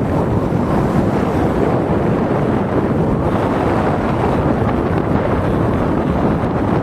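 Steady, loud wind rushing over the microphone, a dense even noise with no separate events.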